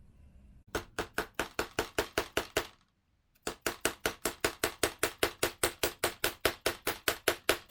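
Hammer tapping rapidly on a socket used as a drift, about five sharp blows a second in two runs with a short pause between, driving a bearing into a Yamaha YZ125 engine case.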